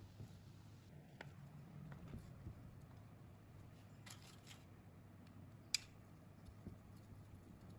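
Near silence over a low steady hum, with a few faint clicks, a brief rustle about four seconds in, and one sharp click of small parts or tools being handled just before six seconds.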